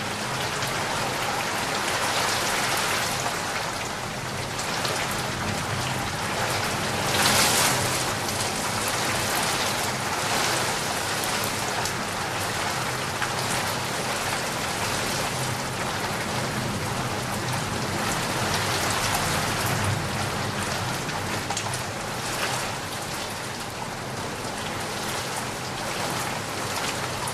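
Steady rain falling, an even hiss of drops, with a brief louder gust of rain about seven seconds in.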